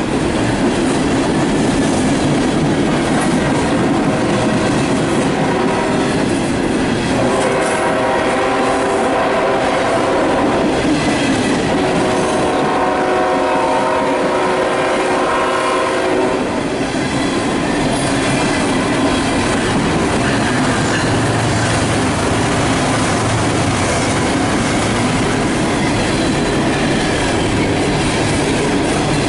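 A CSX freight train rolling past close by, wheels clacking over rail joints, with a multi-chime locomotive horn sounding for several seconds in the middle.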